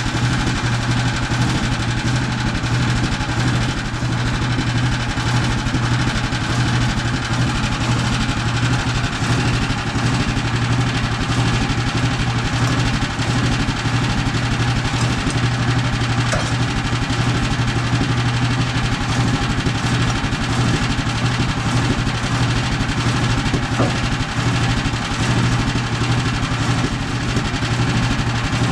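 A sawmill's engine running at a steady speed, with a strong constant low hum that holds throughout.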